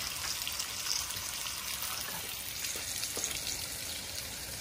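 Food frying in a hot pan on the stovetop: a steady sizzle with fine crackles.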